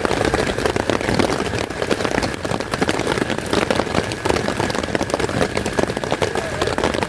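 Heavy rain falling steadily, with many close drops hitting a surface over an even hiss.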